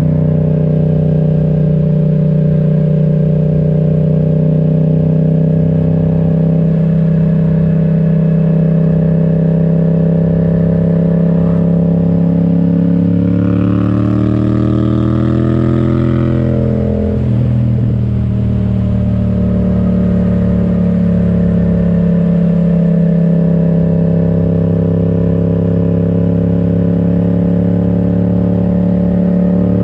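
Yamaha XSR700's 689 cc parallel-twin engine running through an Akrapovic exhaust, holding a steady cruise. About halfway through, the revs climb for a few seconds, then drop sharply and settle back to a steady cruise.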